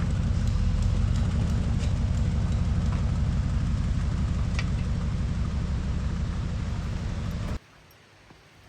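Harley-Davidson Shovelhead V-twin motorcycle engine running with a steady, low, rapid pulsing beat. It stops abruptly near the end.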